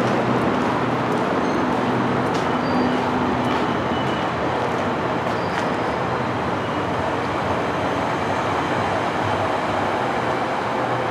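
GO Transit commuter train rolling past: a loud, steady rushing rumble that slowly fades, with a few faint clicks over it.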